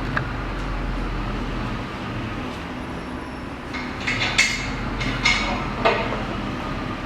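Metal engine parts and tools being handled, with several sharp clinks and knocks of metal on metal in the middle of the stretch over a steady low hum.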